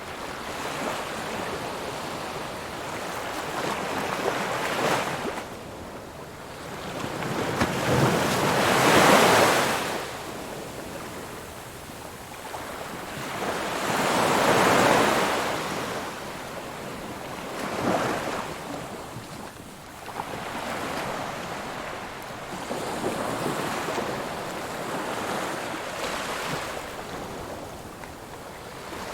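Ocean surf: waves breaking and washing on a shore in slow swells every few seconds, the biggest about a third of the way in and another near the middle.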